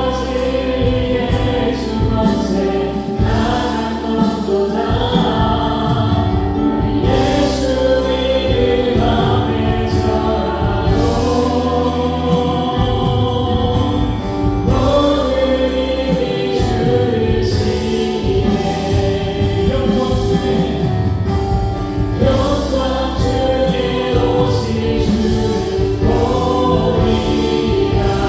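Live contemporary worship band playing a praise song, with keyboards, electric guitar, bass and drums, and several voices singing together.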